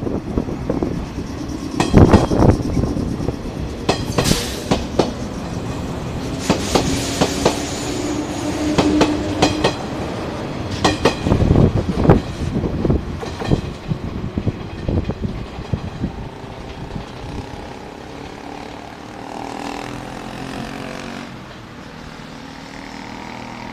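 Yellow electric commuter train rolling through a station, its wheels clacking over rail joints in irregular bursts with a heavy rumble. It fades away in the last third as the train leaves.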